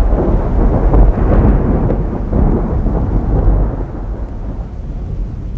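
Wind buffeting the microphone on a boat, a loud low rumble that fades away over the last couple of seconds.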